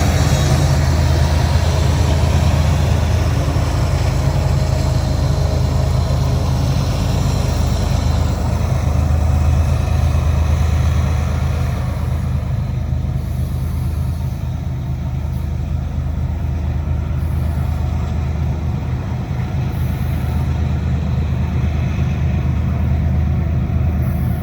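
Loaded BNSF coal train rolling past: a steady low diesel-locomotive drone under the rumble of the cars on the rails, the rumble easing after about ten seconds while the drone continues.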